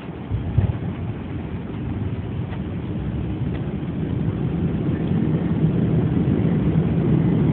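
Boeing 767-300ER on its landing roll, heard from the cockpit: a jolt about half a second in, then a low roar of engine and runway rumble that builds steadily louder.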